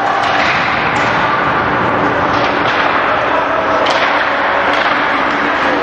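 Ice hockey play at a rink: a steady wash of skate and crowd noise, broken by a few sharp knocks of sticks, puck and boards.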